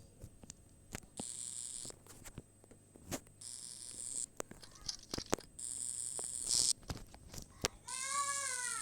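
Four short bursts of high hiss, each under a second, with scattered clicks and a low steady hum. Near the end a cat begins a meow that falls in pitch.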